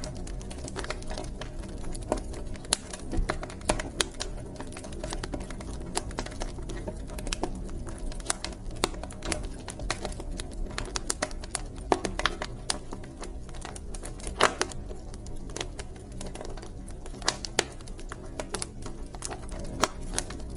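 Wood fire burning in a fireplace: irregular sharp crackles and pops from the logs over a steady low rumble of the flames, with a few louder pops.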